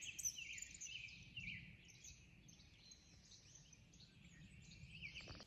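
Faint birdsong: a run of quick, downward-sliding chirped notes repeated over the first couple of seconds, then softer, over a faint outdoor hush.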